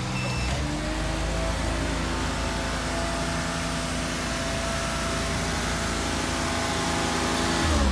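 2006 GMC C7500 bucket truck's engine running steadily. A reversing beeper stops about half a second in.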